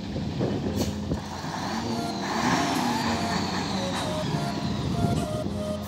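Heavy truck engine running.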